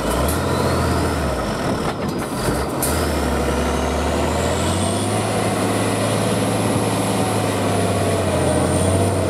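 Heavy diesel truck engine running under load on a trial course, with a high whine that climbs slowly and drops near the end. The engine note dips briefly about two and a half seconds in, with a couple of short sharp sounds around then.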